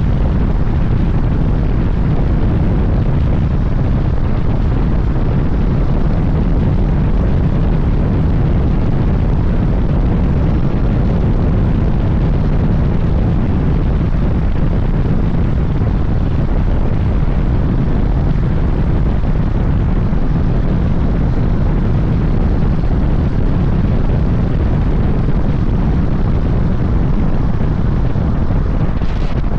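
Suzuki GSX-S1000GT inline-four running steadily under way, mixed with heavy, deep wind rumble on the rider's microphone.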